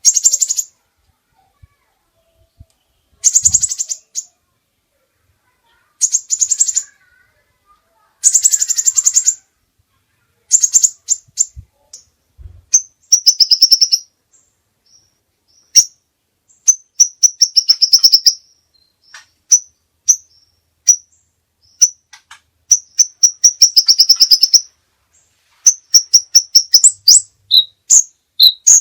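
Caged contest songbird singing loud, high, rapid trilled phrases about a second long, separated by short pauses, breaking into quicker, shorter notes in the second half.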